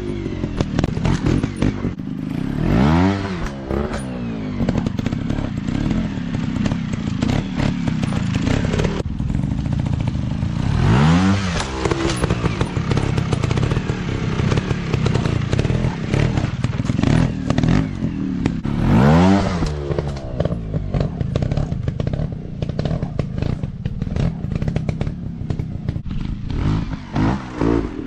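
Dirt bike engines running, each throttle rev making the pitch rise and fall, about every eight seconds, with scattered clattering and knocks.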